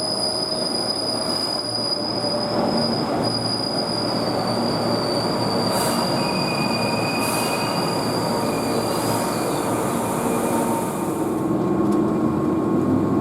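Keihan Main Line train running, heard from inside the carriage, with a dense rumble of running noise. A steady high-pitched wheel squeal sounds over it and fades out about three quarters of the way through.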